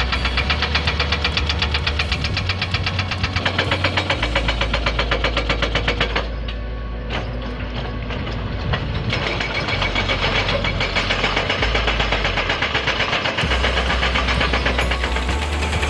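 Komatsu excavator's hydraulic rock breaker hammering rock in a rapid, even run of blows over the excavator's engine running. The hammering eases for a moment about six seconds in, then picks up again.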